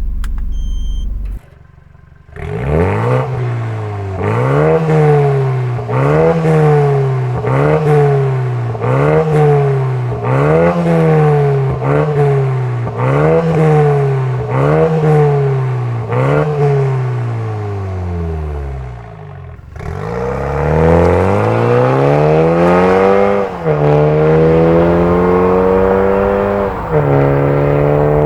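BMW 320i G20's B48 2.0-litre turbocharged four-cylinder through a valved cat-back exhaust, first blipped about a dozen times in quick succession, each rev rising and falling about a second apart. The engine then drops back and pulls up hard in long rising sweeps, with the pitch falling abruptly twice as it shifts up through the gears. A short low rumble comes right at the start.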